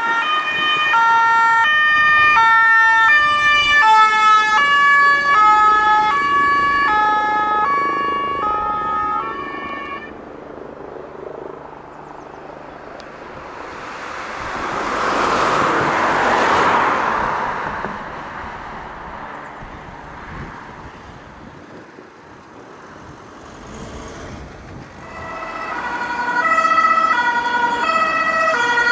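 German two-tone emergency horn (Martinshorn) on a responding fire service car, alternating between a high and a low note about every three-quarters of a second, then fading away about ten seconds in. The rush of a vehicle driving past swells and dies away in the middle. A second two-tone horn comes in near the end and grows louder.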